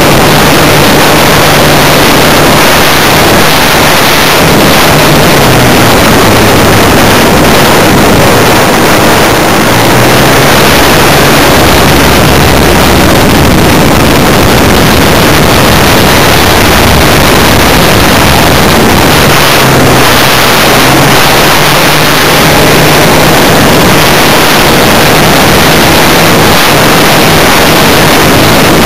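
Funtana S90 radio-control model plane's engine running, loud and with heavy wind rush over the camera microphone. Its pitch drops and comes back up twice as the throttle changes.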